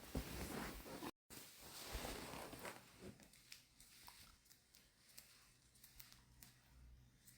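Near silence: quiet indoor room tone with faint rustling and soft ticks in the first few seconds, and a brief dropout of all sound about a second in.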